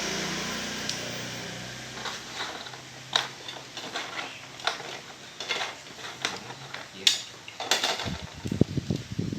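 A small electric rotary grinder with a round bit hums and fades over the first few seconds. Scattered clicks and knocks follow, with a burst of low rattling near the end.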